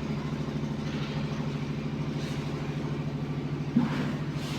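An engine running steadily at idle, a low even hum with a fast regular pulse, with a brief louder sound near the end.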